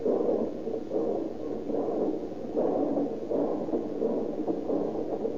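Radio-drama sound effect of a steam train pulling out and running: a rhythmic chugging noise of about two pulses a second, muffled on an old transcription recording.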